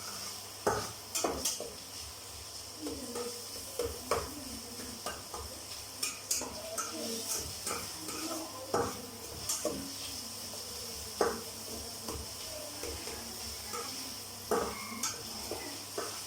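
A metal spoon stirring and scraping in a cooking pot, with irregular clinks and knocks against the pot, over a steady sizzle of onions frying in oil.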